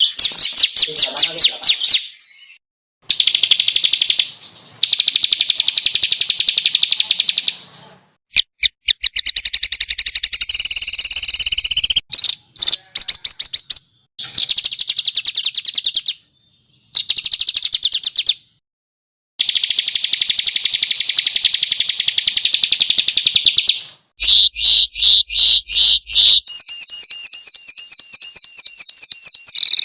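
Small songbirds singing rapid, high-pitched trills and fast runs of sharp notes, the rapid-fire 'tembakan' style of song, in bursts of a few seconds each that stop abruptly between edited recordings.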